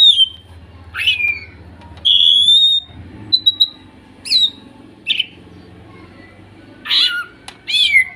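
Green leafbirds (cucak ijo) giving a series of short, sharp whistled and squawking calls, about nine in all with short gaps between, several gliding down in pitch and one held a little longer.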